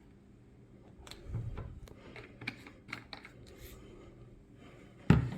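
Handling noise: a quick run of light clicks and taps, then one loud knock near the end.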